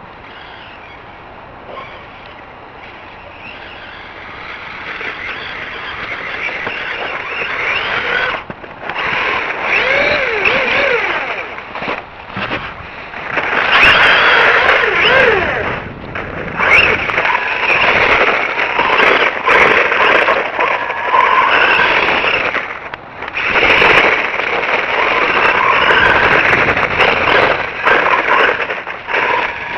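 Electric whine of a 1/12-scale brushed RC monster truck driving in bursts of throttle, the pitch rising and falling with speed and dropping away in short gaps between runs.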